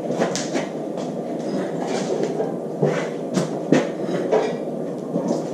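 Irregular metallic clunks and knocks, about six in a few seconds, over a steady background of garage noise, from metal parts and tools being worked during an engine pull.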